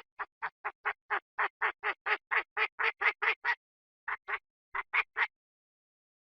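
Chinese francolin calling: a rapid series of harsh notes, about four a second, growing louder for over three seconds. After a short pause come a pair of notes and then a group of three.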